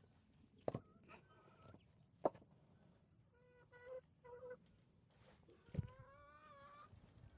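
Chickens calling: two short clucks, then a longer, slightly wavering call near the end. Three sharp knocks are mixed in, one early, one about two seconds in, and one just before the long call.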